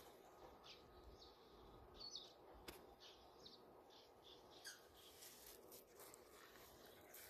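Near silence outdoors, with a few faint, brief high chirps of small birds scattered through it.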